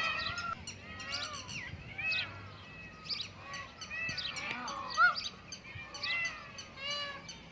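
A chorus of many birds chirping and calling at once, short overlapping calls with no pause, and one louder call about five seconds in.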